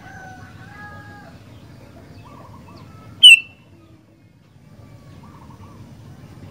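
Sooty-headed bulbul (kutilang) song: faint short whistled phrases, then one loud, sharp call a little past three seconds in, over a low background rumble.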